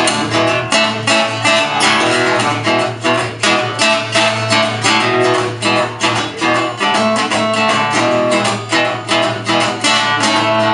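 Acoustic guitar strummed in a steady rhythm, an instrumental break between sung verses of a folk-country song.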